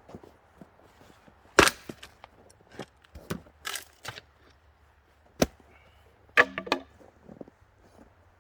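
Axe chopping small branches and twigs for kindling: a series of sharp, irregular wooden cracks, with three louder strikes and softer knocks between them.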